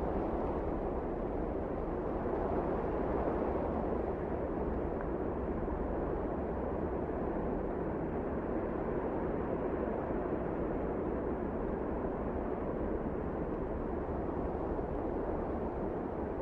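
Wind blowing steadily in a blizzard: an even, low rushing noise.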